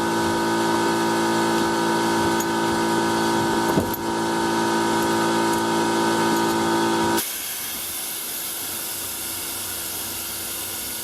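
A machine running with a steady hum, cutting off abruptly about seven seconds in and leaving a steady hiss.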